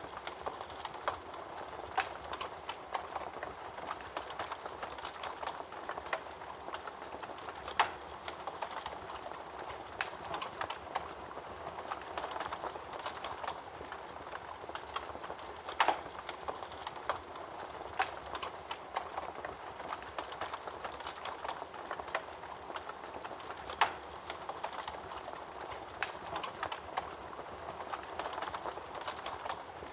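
Fire crackling steadily: a soft hiss full of small quick pops, with a few louder sharp snaps.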